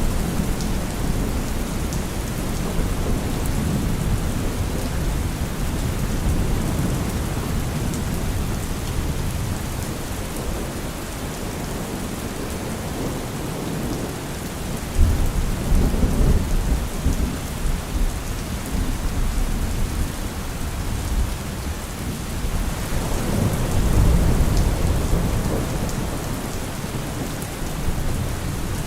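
Steady rain with low rolling thunder. A sudden louder peal of thunder comes about halfway through, and another long rumble swells a little later.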